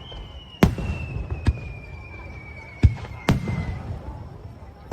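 Aerial fireworks bursting: four sharp bangs with rumbling tails, and a long thin whistle that slowly falls in pitch and fades after about three and a half seconds.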